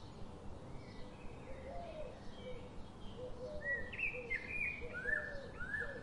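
Wild birds chirping: short high sliding notes that grow louder in the second half, with softer, lower repeated calls underneath, over a steady outdoor background noise.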